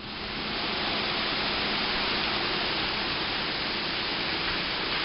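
Heavy hurricane rain falling in a steady, even rush.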